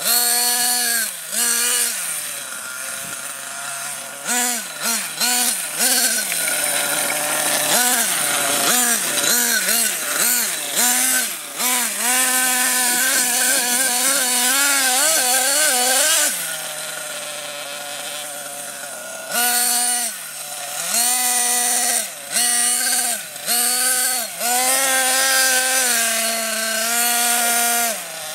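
Small nitro glow engine of an RC monster truck being blipped and revved over and over, its pitch rising and falling with each burst of throttle and dropping back to a steady idle between bursts. It runs quieter for a few seconds around the middle before revving again.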